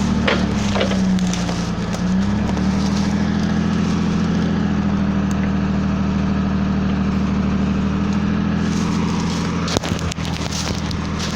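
Mercedes-Benz 1313 truck's six-cylinder diesel engine running steadily, its speed sagging for about a second soon after the start and then picking back up. A sharp knock comes near the end.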